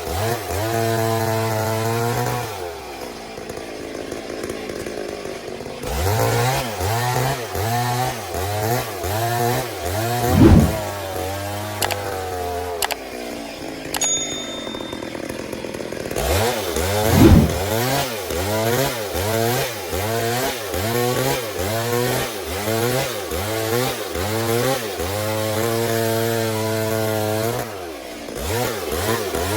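Stihl MS 382 two-stroke chainsaw ripping lengthwise through a log, its revs repeatedly rising and falling as the cut loads it. The revs ease off briefly a few seconds in and again near the end. There are two short loud surges, about ten and seventeen seconds in.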